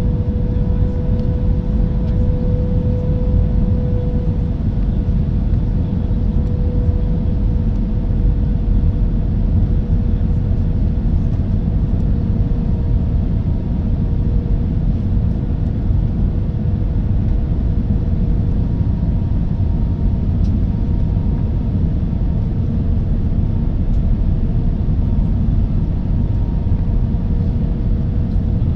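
Cabin noise inside an Airbus A320-214 near the wing: the steady low rumble of its CFM56 engines and airflow, with a steady whine.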